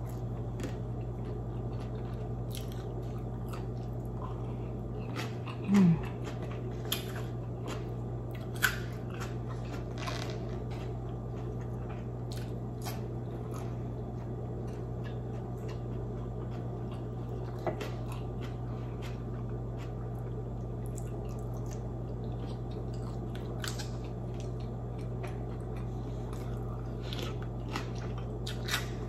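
Close-miked chewing of cooked squid: wet mouth sounds with many small clicks and smacks over a steady low hum. A short vocal 'mm' about six seconds in.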